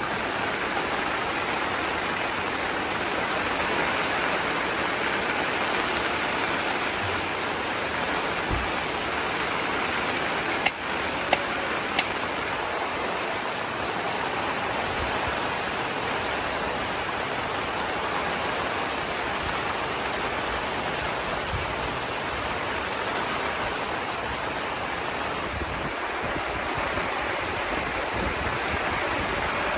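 Heavy rain pouring steadily. Three sharp clicks come close together about eleven to twelve seconds in.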